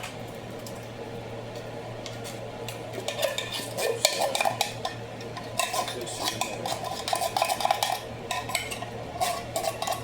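A spoon stirring and scraping in a pot, with irregular clinks that start about three seconds in and get busier, over a steady low hum.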